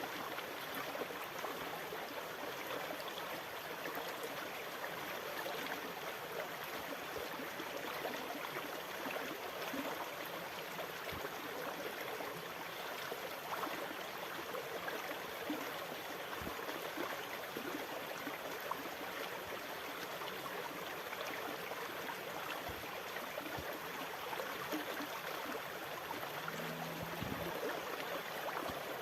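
Sea water making a steady, even rushing wash, with no distinct rise and fall of breaking waves.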